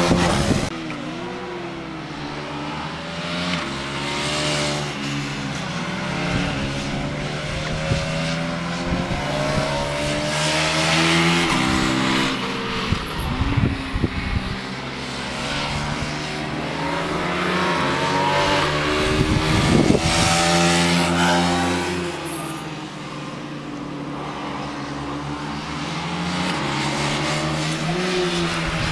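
Aprilia RS4 125's single-cylinder four-stroke engine being ridden hard, its pitch repeatedly climbing as it accelerates through the gears and dropping as it brakes for corners. It swells louder twice as it passes close by.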